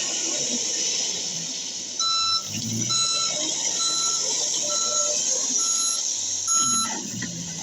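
A vehicle's reversing alarm beeping at a steady pace, six short beeps about a second apart starting about two seconds in, over a steady background noise.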